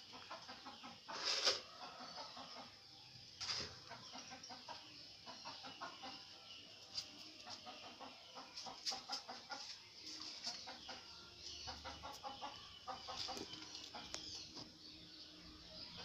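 Faint bird calls in the background: many short calls scattered through, with two louder ones in the first four seconds.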